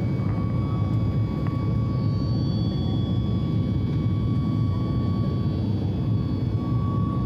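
Steady rumble of an airliner's engines and airflow heard from inside the cabin, with a few faint steady whining tones over it.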